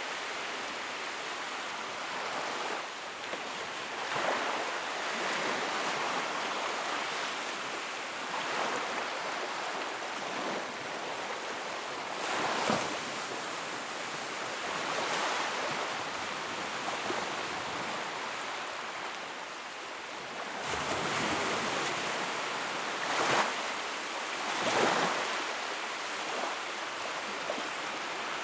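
Sea waves breaking and washing on the shore, a steady rushing wash that swells every few seconds, with sharper crashes about a third of the way in and twice near the end.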